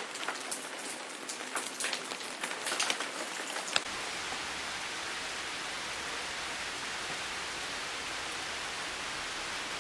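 Rain falling, with many individual drops pattering on a surface for the first few seconds. About four seconds in it changes to a steady, even rain hiss.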